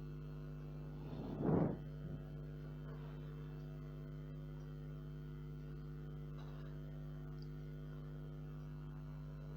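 Steady electrical mains hum, with one short rustling noise about one and a half seconds in.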